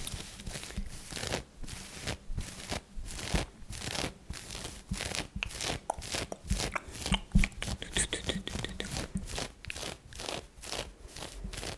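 Close-miked scratching and rustling in quick, uneven strokes, about two or three a second.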